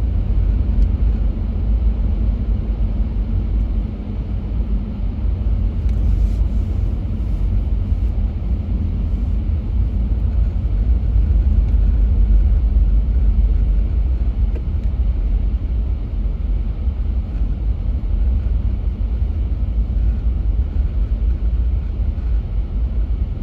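Steady low rumble of road and wind noise from a Lexus GX 470 driving through a blizzard with strong crosswinds.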